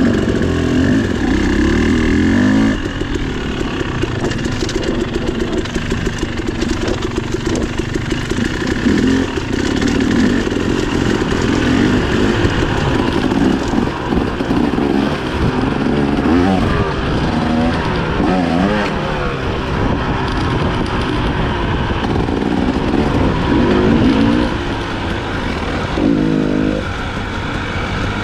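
Dirt bike engine running under way, revving up and down again and again as the throttle opens and closes.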